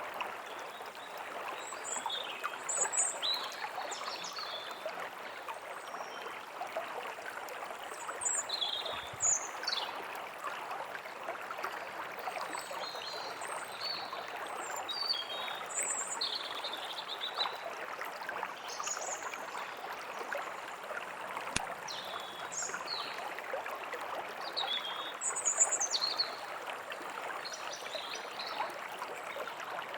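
A stream running steadily, with birds chirping on and off above it.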